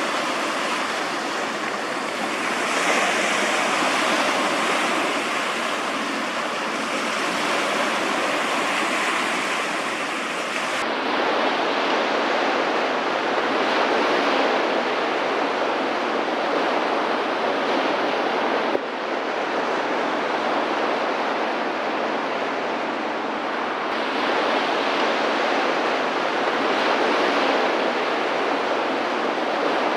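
Steady rush of sea waves and water, with wind buffeting the microphone. The sound changes abruptly about 11 seconds in and again about 19 seconds in.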